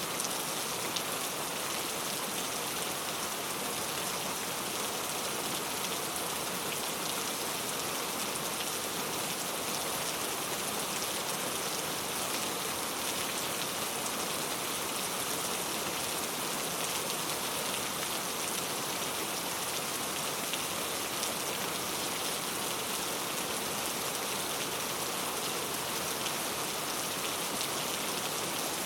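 Very heavy rain falling steadily, a dense even hiss of drops on a surface.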